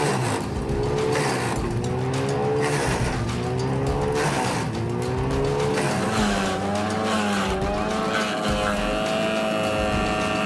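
Wood chipper's engine working under load, its pitch repeatedly sagging and climbing again as wood is fed through, with crunching and cracking of wood being chipped throughout.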